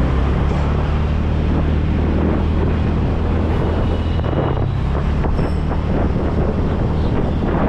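Wind buffeting the microphone of a moving bike, loud and steady, over a low droning hum.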